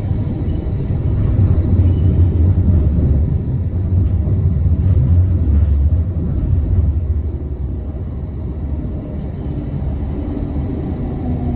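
Tram running on its rails, heard from inside: a steady low rumble, louder in the middle and easing off after about eight seconds. Near the end a whine begins, falling in pitch.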